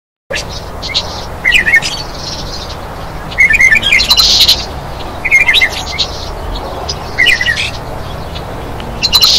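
Birds chirping, a short chirping call repeating about every two seconds over a steady background hiss; the sound cuts in suddenly just after the start.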